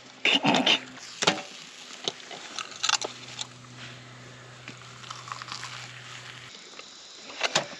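Someone eating, with biting and chewing sounds and scattered short crackles and clicks. A low steady hum runs underneath and stops about six and a half seconds in.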